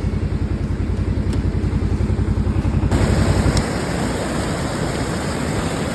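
A small vehicle engine running with a fast, even pulse. About three seconds in, a louder steady hiss joins it, and the engine's low pulse fades out soon after.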